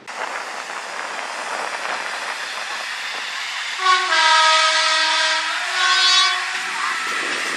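A First Great Western train of Mk3 coaches rolls past with a steady rumble. About four seconds in, a loud horn sounds, a long note followed by a shorter one.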